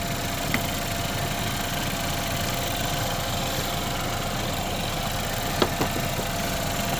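A GMC Terrain's engine idling steadily while it serves as the boost vehicle for a jump start. A few faint clicks come through, one about half a second in and a pair around five and a half to six seconds in.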